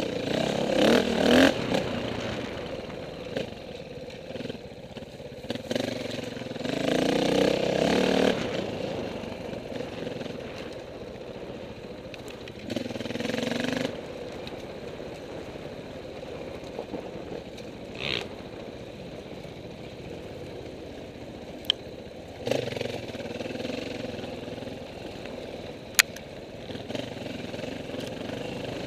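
Dirt bike engines revving and rising in bursts as bikes ride past, loudest near the start and again about seven seconds in, with quieter passes later and a couple of sharp clicks.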